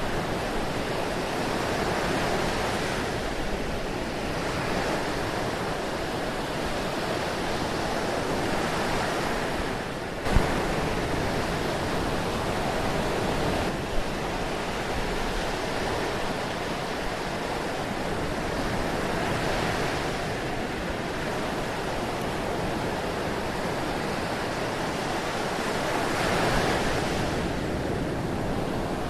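Ocean surf washing in continuously, swelling and easing as waves break every several seconds. A sharp thump sounds about ten seconds in, and a smaller one a few seconds later.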